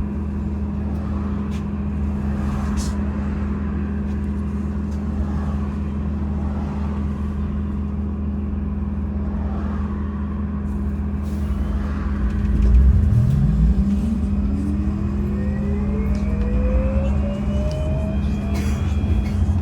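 MAZ-203T70 trolleybus running with a steady electric hum. About two-thirds of the way in, its electric traction drive starts a smooth whine that climbs in pitch for several seconds as the trolleybus accelerates.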